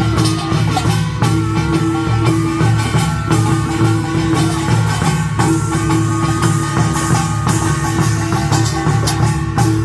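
Korean nongak (pungmul) farmers' band playing at full tilt: rapid metallic gong strikes and steady drumming, with a large gong ringing underneath and a high, wavering melody over the top.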